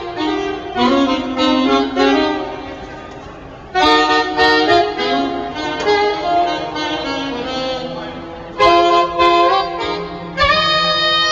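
Music led by a saxophone playing melodic phrases of long held notes, with a new phrase every few seconds.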